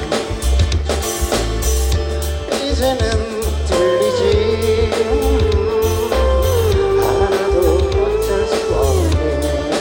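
Live song with acoustic guitar over a drum-and-bass beat, the melody held in long notes that step down in pitch.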